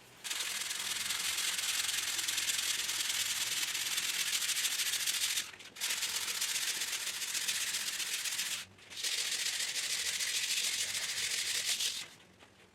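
Sandpaper rubbed by hand over a wooden workbench top in quick back-and-forth strokes, a steady hiss in three long runs with two short pauses, stopping a little before the end.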